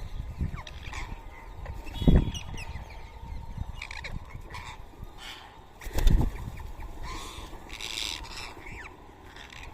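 Rose-ringed parakeets giving short, scattered chirps and calls. Two dull low thumps stand out, about two seconds and six seconds in.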